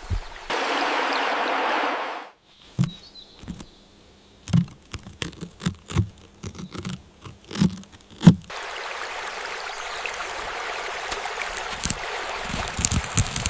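Running water, with a steady rush about half a second in that breaks off after about two seconds. A quiet stretch with a series of separate taps and knocks follows, and then the steady water sound returns.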